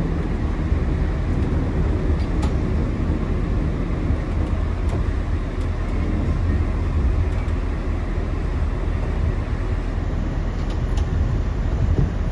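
Steady low rumble of a track inspection railcar rolling along the track, heard inside its driving cab, with a few faint clicks.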